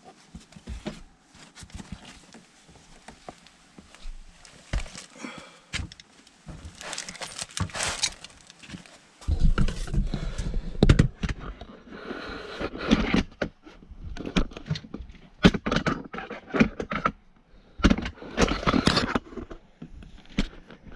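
Irregular metallic clinks, scrapes and knocks of hand tools working on a gas furnace's gas-line fittings during a gas valve replacement. The knocks become heavier and more frequent about nine seconds in.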